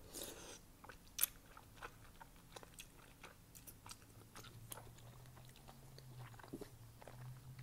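Close-up eating sounds from thick, chewy wide glass noodles: a wide noodle is bitten and drawn into the mouth at the start, followed by wet chewing with many short mouth clicks and smacks. The loudest smack comes about a second in.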